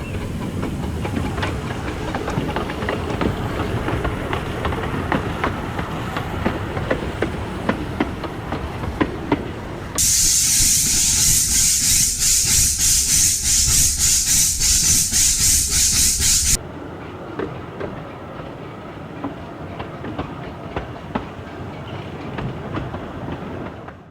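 A 15-inch gauge miniature railway train running, its wheels clicking over the rail joints. About ten seconds in, a loud hiss pulsing roughly twice a second cuts in suddenly for several seconds. Then the sound drops back to a quieter, duller rumble with occasional clicks.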